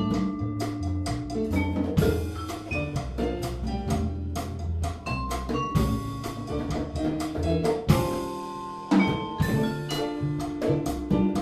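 Latin jazz band playing a cha-cha arrangement: vibraphone or piano melody over string bass and hand percussion, with sharp cymbal-like hits about two seconds in and again near eight seconds.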